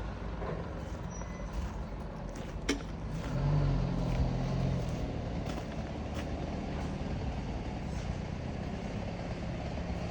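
Motor vehicle engine running with a steady low rumble, swelling briefly in level about four seconds in; one sharp click sounds near the three-second mark.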